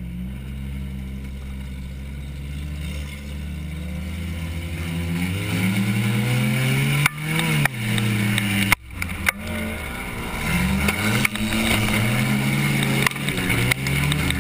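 Compact car's engine running steadily at low revs, then revving and accelerating, its pitch climbing and falling. There are a few sudden breaks around the middle, then it climbs again.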